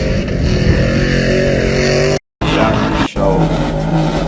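Loud pickup-truck exhaust running in two edited clips, the sound cutting out abruptly a little past two seconds in before another truck's steady exhaust note picks up.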